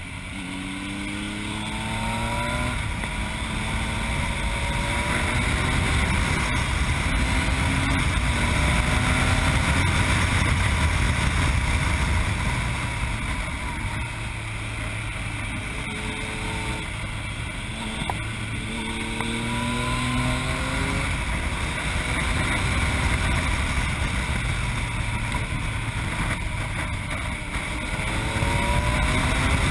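Yamaha MT-09's inline-three engine, running through an Akrapovic exhaust, accelerating hard several times. Each time the pitch climbs, drops back as it shifts up a gear, and climbs again.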